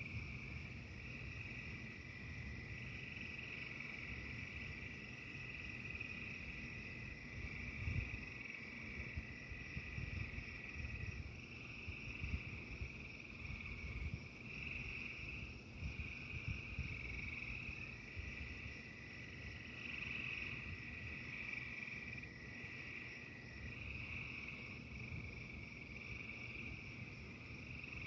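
A dense chorus of frogs calling, a continuous pulsing high chorus, with a thin steady high trill that runs for several seconds twice. A low, uneven rumble sits underneath.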